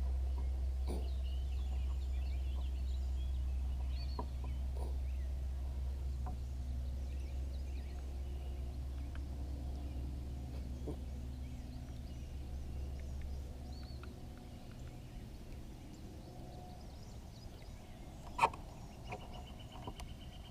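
Outdoor lake ambience: a low steady rumble that eases off about two-thirds through, with faint scattered bird calls throughout and a single sharp knock near the end.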